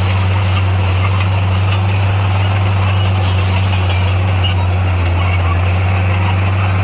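Heavy earthmoving machine's diesel engine running at a steady low hum, with no change in pitch or level.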